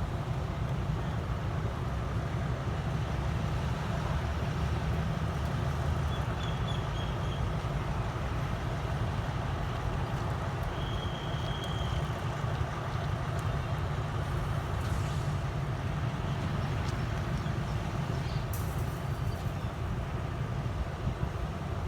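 Train running, a steady low rumble throughout. A faint short high tone sounds twice, and there is a brief sharp noise burst near the end.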